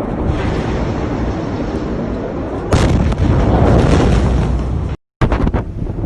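Low rumbling noise, then a sudden loud blast about two and a half seconds in from a large explosion, rumbling on for about two seconds before cutting off abruptly; a second recording follows with a few sharp cracks.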